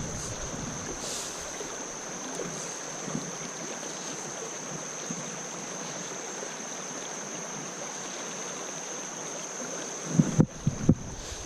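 Creek water running over rocks, a steady rushing, with a thin steady high-pitched whine above it. A few sharp knocks about ten seconds in.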